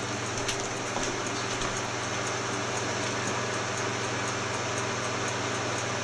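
Steady mechanical hum with an even background hiss and faint, evenly spaced ticking, unchanging throughout.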